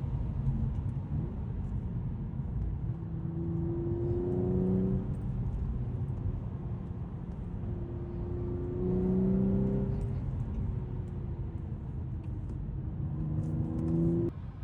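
2012 Audi S5's supercharged 3.0-litre V6 pulling under acceleration over steady road noise, its pitch rising three times, then dropping off suddenly near the end.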